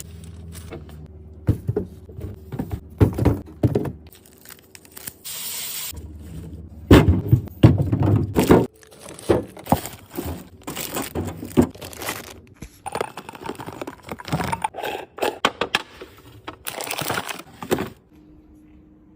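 Handling sounds from cleaning and restocking a refrigerator: containers and packages set down with irregular knocks and thunks, plastic crinkling and scraping, and two short hisses. The activity stops about a second before the end, leaving only a faint hum.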